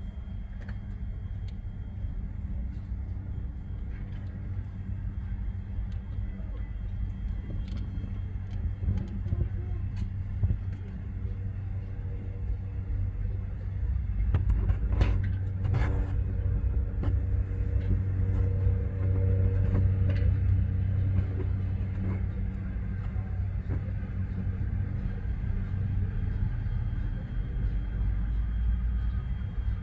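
A steady low engine rumble that grows louder about halfway through, with a few sharp clicks in the middle.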